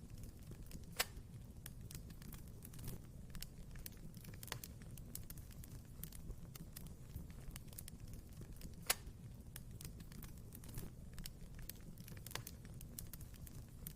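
Wood fire crackling in a fireplace: irregular snaps and pops over a low steady rumble of the flames, with two sharper pops about a second in and near nine seconds in.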